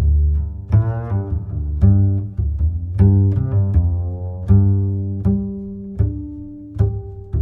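Background music: low plucked string notes, like a double bass or cello played pizzicato, each note struck and left ringing.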